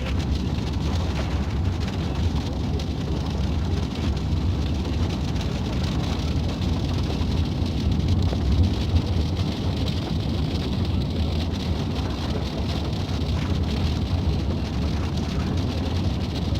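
Heavy rain: a steady wash of rain noise over a deep low rumble.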